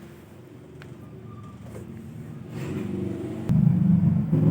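An engine running with a low hum that grows steadily louder, then jumps up sharply with a click about three and a half seconds in.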